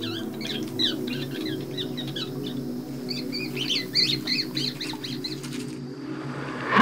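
Bird calls: rapid, high-pitched chirps in quick runs, with a short pause partway through, over a steady low hum; they stop about a second before the end.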